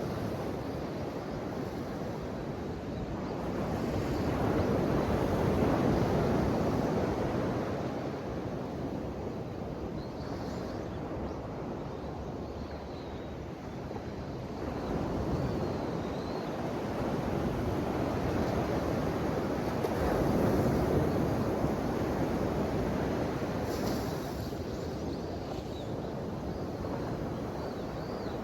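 Ocean waves washing onto the shore, a continuous rush of surf that swells twice, about five seconds in and again around twenty seconds, then eases back.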